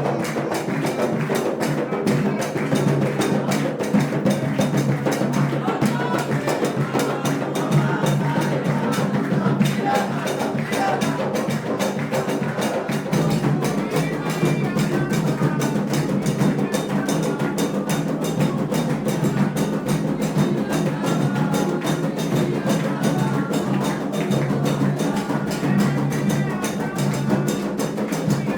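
Candomblé ritual music: hand drums played in a steady rhythm, with voices singing over them.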